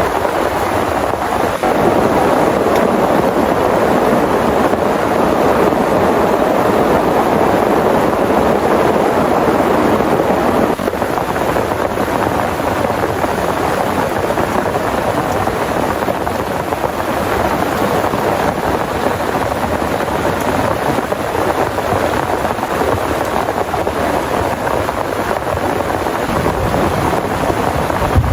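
Heavy rain pouring down steadily and loudly, a dense unbroken hiss and patter.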